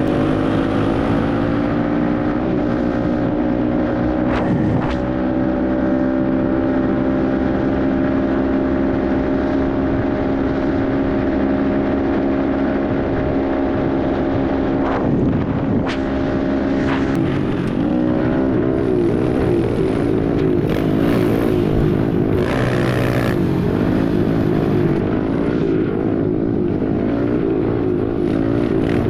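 Pit bike engine running steadily under throttle while being ridden, its pitch climbing a little at first and then holding. In the second half the pitch wavers up and down, and a few sharp knocks come through along the way.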